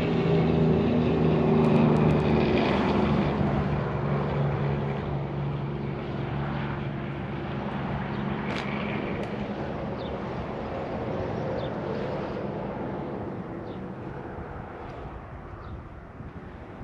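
A passing engine drone, loudest about two seconds in, then dropping slightly in pitch and slowly fading away. A few faint clicks come through later.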